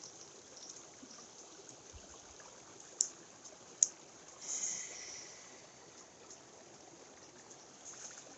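Mountain stream water running steadily, heard as a faint hiss. Two sharp clicks come about three seconds and just under four seconds in, followed by a brief louder rush.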